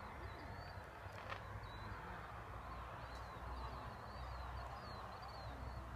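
Faint outdoor night ambience: a steady low rumble with a quick, repeated high chirping over it.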